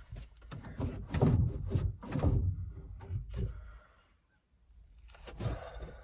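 Hands working at a stuck part of an HVAC unit: a run of knocks and thumps with scraping, a short pause, then another knock.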